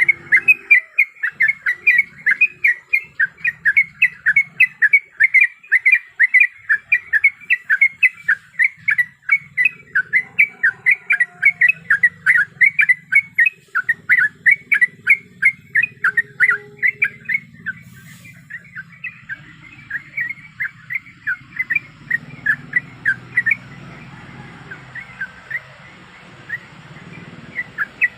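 Yellow-vented bulbul (trucuk) calling in a fast, continuous run of short chirps, several a second, which grow sparser and softer over the last third.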